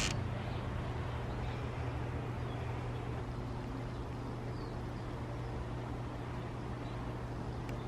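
Steady low drone of a running vehicle: one low hum held under an even haze of noise.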